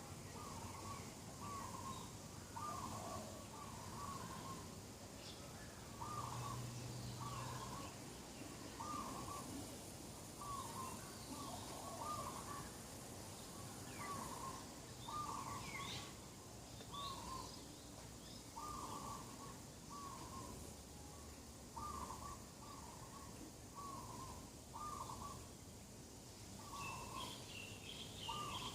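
Birds calling: one bird repeats a short low call over and over, about once a second, sometimes in pairs. Other birds add a few higher chirps, and a quick run of high chirps starts near the end.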